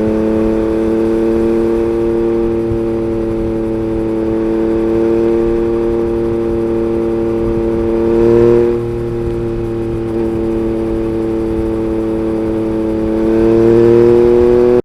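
Yamaha MT-09's three-cylinder engine through an Akrapovic Racing Line carbon exhaust, running at a nearly steady engine speed while cruising. It swells briefly louder about halfway through and rises in loudness again near the end.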